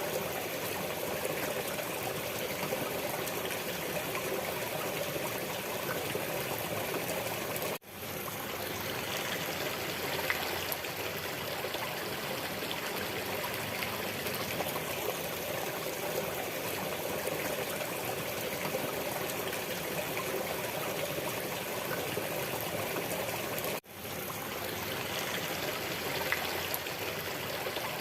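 Steady flowing water, like a running stream, with an even rushing sound that drops out for an instant about eight seconds in and again about sixteen seconds later.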